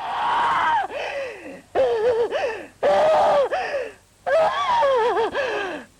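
A high voice crying out in four separate wailing bursts, each held for about a second and sliding up and down in pitch.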